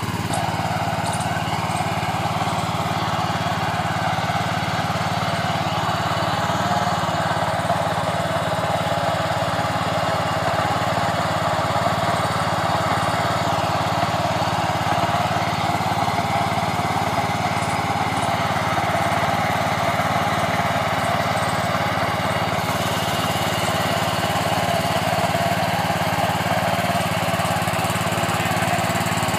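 Kama engine of a four-wheel power weeder running steadily, a constant engine drone without pauses or revving.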